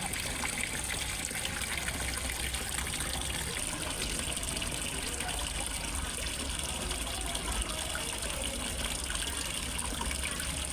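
Small waterfall splashing steadily into a fish pond, an even rush and trickle of water with a low rumble underneath.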